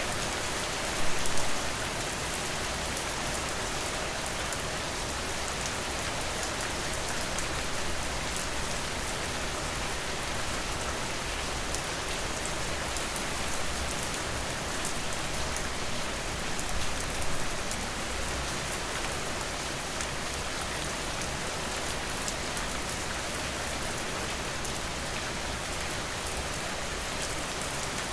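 Steady rain falling, an even hiss. A few brief louder knocks come about a second in and again about halfway through.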